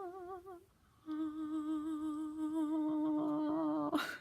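A woman humming: a wavering note that breaks off under a second in, then a long, steady held note that cuts off near the end with a short sharp sound.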